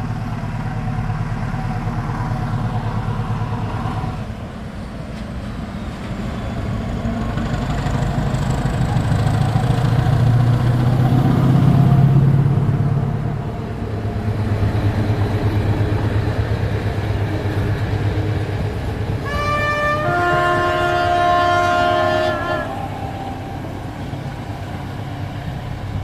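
SU42 diesel locomotive pulling away, its engine running with a low rumble that swells as it throttles up. About three-quarters of the way through it sounds its horn: a brief higher note, then a lower chord held for about two and a half seconds.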